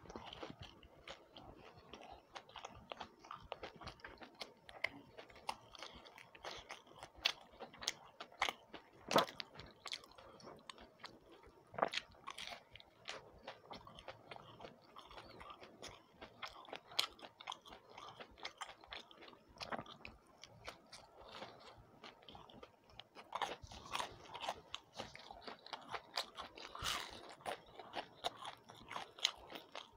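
Close-up chewing and crunching of fried kakra pitha: a steady run of small crisp crunches and mouth clicks, getting busier over the last several seconds.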